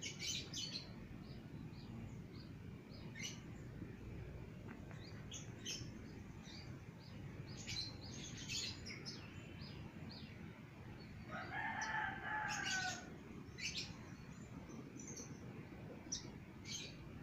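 Kolibri ninja (purple-throated sunbird) singing: short, high, thin chirps and trills in scattered bursts. About eleven seconds in, a rooster crows once in the background, a lower falling call lasting over a second.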